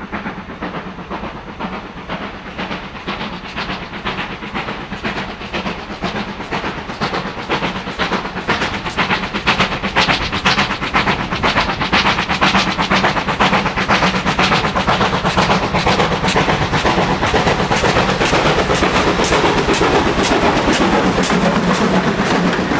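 Steam locomotive working a train, its exhaust beats coming in a steady rhythm that grows louder over the first half and quickens as it gathers speed.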